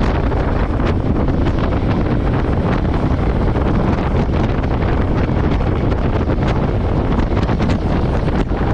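Steady, loud wind rush and buffeting on the microphone of a camera riding on a Royal Enfield Meteor 350 motorcycle, with the bike's running and road noise underneath.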